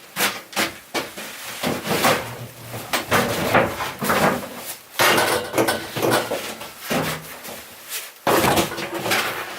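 Irregular series of knocks, bangs and clatter, like doors or things being moved about and put down, with a few sharp strokes throughout.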